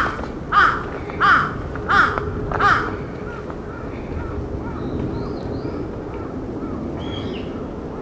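A bird gives five loud calls in a row, about two-thirds of a second apart, then fainter short calls follow over a steady low background noise.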